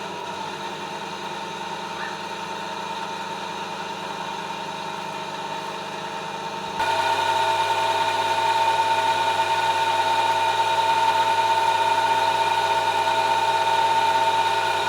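A small engine running steadily at a constant speed. About seven seconds in it abruptly gets louder and deeper in tone, then holds steady again.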